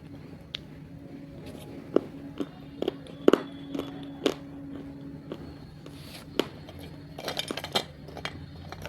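Pieces of roasted multani mitti clay clicking and clinking against a dish as they are handled, with a short burst of crackly crunching near the end as a piece is bitten.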